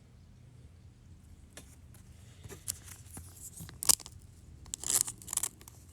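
Plastic wrapper of a trading card pack tearing and crinkling as it is opened, in short crackly bursts that begin about one and a half seconds in and are loudest around four and five seconds.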